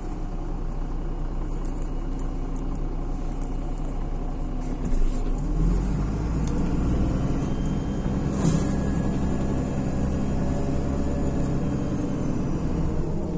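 MAZ-103 city bus heard from inside while driving: the diesel engine running with road noise, pulling harder from about five seconds in. There is a brief knock just past the middle, and the engine eases off near the end.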